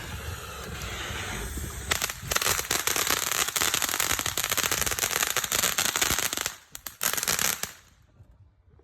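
Fireworks going off: a steady hiss for about two seconds, then a dense run of rapid crackling pops for four to five seconds, a brief lull, a last short burst of crackling, and then it stops.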